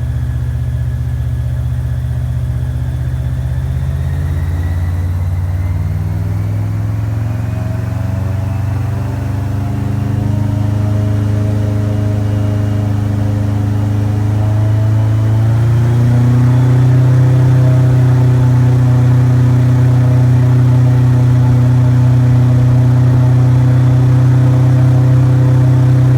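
Airboat engine and propeller running, picking up speed with a steadily rising pitch over about twelve seconds, then holding a steady, louder pitch at cruising speed.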